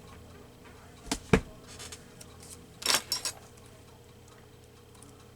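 Small objects handled on a craft tabletop: two sharp taps about a second in, then a short clatter of clicks near three seconds, over a faint steady hum.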